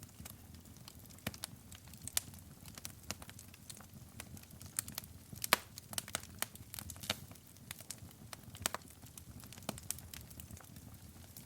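Wood fire burning in a fireplace: irregular sharp crackles and pops over a low steady rumble of the flames, the loudest pop about five and a half seconds in.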